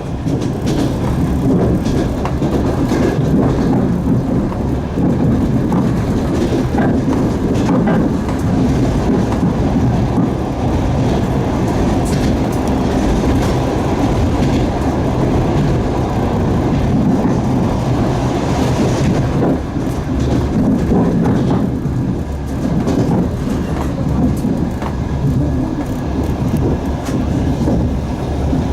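Passenger train running: the steady rumble of a railway carriage's wheels on the track, with clickety-clack ticks as the wheels pass over rail joints, heard from inside the carriage.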